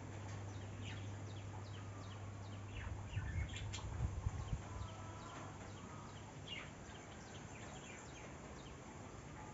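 Small birds chirping: many short, quick calls that drop in pitch, coming and going throughout. A steady low hum stops about three seconds in, and a few low thumps follow over the next second and a half, the loudest part.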